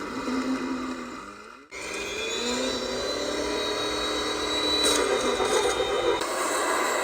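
Model train's small electric motor whining. After a sudden break about two seconds in, the whine rises in pitch and then runs steady.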